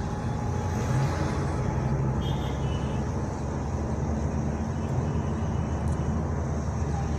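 Steady low road and engine rumble inside a moving Honda Elevate SUV's cabin.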